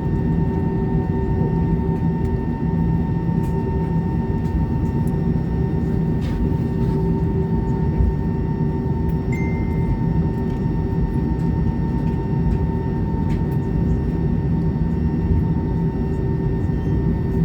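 Airbus A320 cabin noise: the steady drone of the jet engines and airflow heard from inside the cabin, with a few constant tones running through it and no change in pitch.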